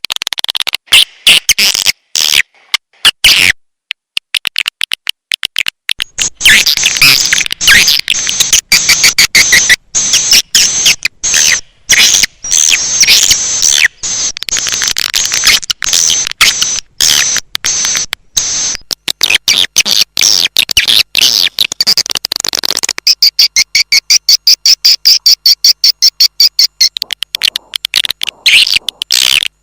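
Swiftlet calling recording: edible-nest swiftlets twittering and chirping in fast, dense runs of high clicks, the kind of call played in swiftlet houses to lure the birds in. It breaks off for a couple of seconds near the start, then goes on thickly, turning to a steadier high trill in the last few seconds.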